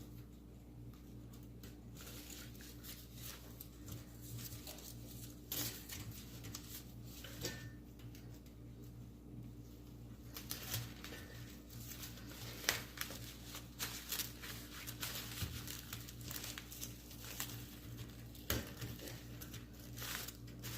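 Faint rustling and crinkling with scattered small clicks as roses are handled and tied onto a bird cage with little ties, over a steady low hum.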